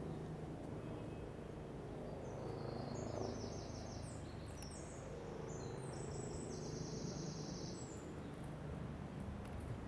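A small songbird singing a run of high, fast-repeated trilled phrases at several pitches, from about two seconds in until near the end, over a steady low hum of city background noise.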